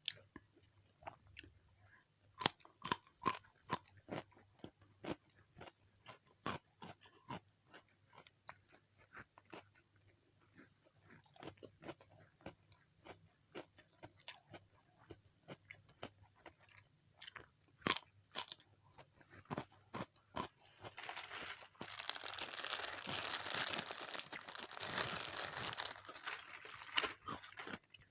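Close-miked mouth sounds of eating crisp food: a string of sharp crunching bites and chewing. About two-thirds of the way through, the crunching turns into a dense, continuous crackling for several seconds.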